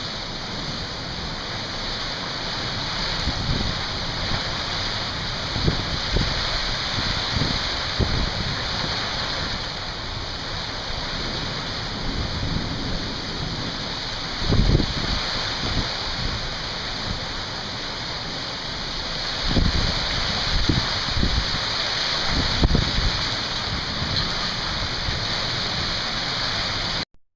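Heavy downpour of a subtropical thunderstorm: a steady, dense hiss of pouring rain, with brief low thumps every few seconds. It cuts off suddenly near the end.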